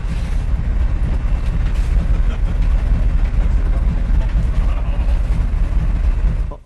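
Loud, steady low rumble of wind and ship noise on the deck of a ship at sea, in a force-5 south-west wind. It cuts off abruptly near the end.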